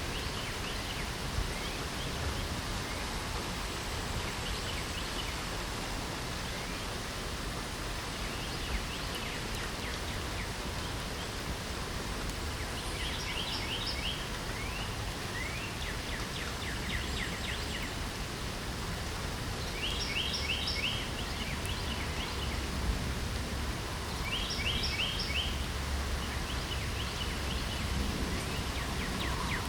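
Steady hiss of falling rain, with birds singing over it: a rapid trill of short high notes comes four times, about halfway through and then every few seconds, with fainter chirps between.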